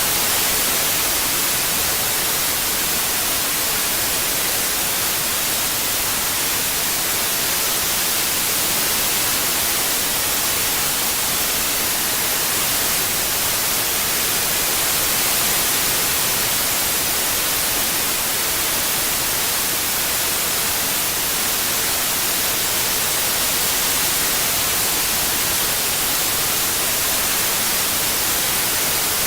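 Continuous white noise: a steady, even hiss strongest in the treble, with no breaks or changes.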